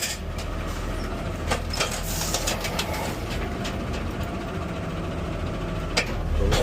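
Garbage truck's diesel engine running steadily, with a few sharp clicks and knocks about a second and a half in, just after, and again near the end.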